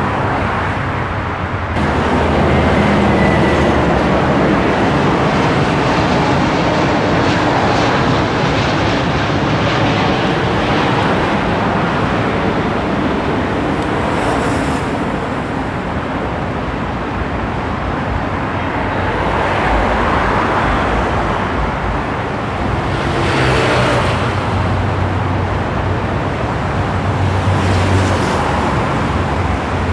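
Motor vehicle engine running with continuous road noise. The low engine tone shifts several times, and there are brief louder swells.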